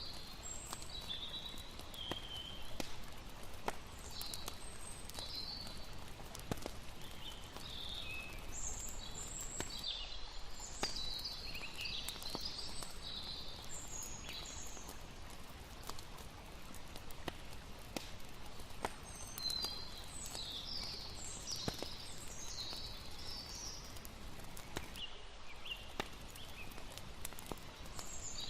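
Layered campfire-by-the-water night ambience: a fire crackling with sharp pops every second or so, and short flurries of high chirping calls, over a steady soft rush of water.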